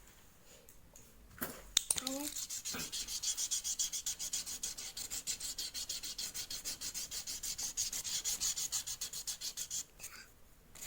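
Rapid rhythmic rubbing, about six strokes a second for roughly eight seconds, after a few sharp clicks near the start.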